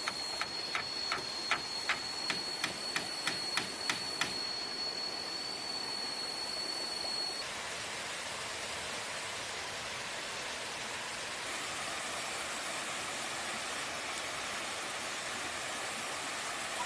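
Steady rush of flowing stream water. In the first four seconds about a dozen sharp knocks come at roughly three a second, and a thin high steady tone sounds until a little under halfway through.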